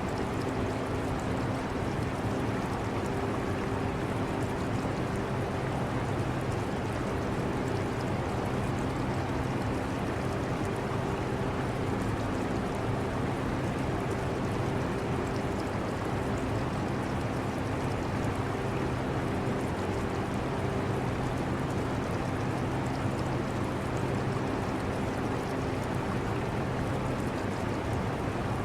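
Air conditioner running steadily with a low hum over a constant rush of air, mixed with aquarium water trickling and gurgling.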